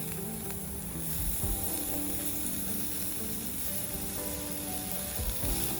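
Meat sizzling steadily on a hot iron plate, with background music playing.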